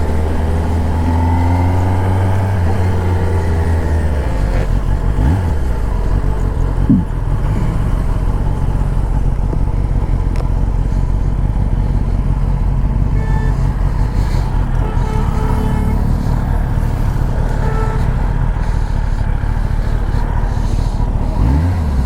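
1000cc superbike engine running on the road, with a steady low note that turns to a rougher, denser rumble about four seconds in, and brief pitch glides about seven seconds in and near the end.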